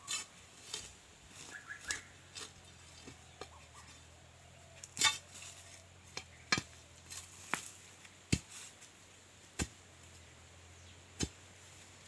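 Iron digging bar (crowbar) striking hard ground and stones while digging out a wild tuber: separate sharp clinking strikes at an uneven pace, a second or more apart.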